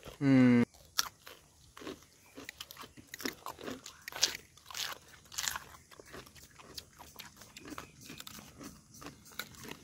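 Biting and chewing firm papaya pieces close to the microphone: a run of irregular crunches and clicks. A short, loud vocal sound comes right at the start.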